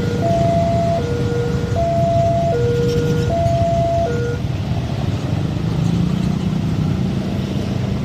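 Railway level-crossing warning alarm sounding a two-tone alternating signal, the tones switching about every three-quarters of a second, stopping about four seconds in. Under it runs a steady low engine rumble.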